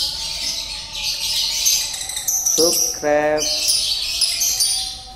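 Chicken squawking in shrill, rapid calls that run on without a break.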